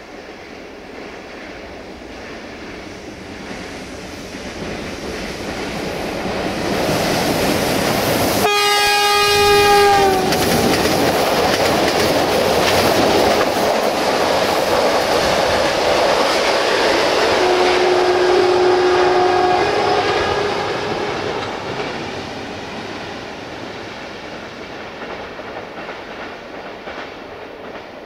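A diesel-hauled passenger train passes close by, rumbling louder as it comes and fading as it goes away. Its locomotive horn gives one loud, sudden blast under two seconds long that drops in pitch as it passes, and the coaches clatter over the rail joints. A shorter, fainter steady tone at a lower pitch sounds about ten seconds after the horn.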